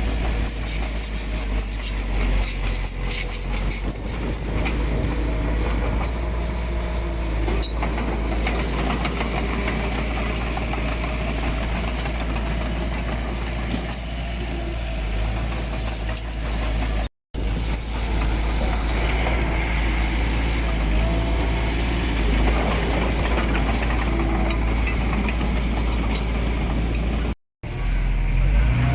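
Diesel engine of heavy earthmoving machinery running steadily with a deep low rumble, with clanking and rattling in the first few seconds. The sound drops out for an instant twice.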